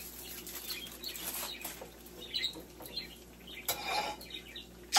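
Fry bread dough frying in a skillet of hot oil, sizzling with small crackles, alongside light clinks and clatter of utensils and pans. There is a louder scrape of cookware about four seconds in and a sharp clank near the end.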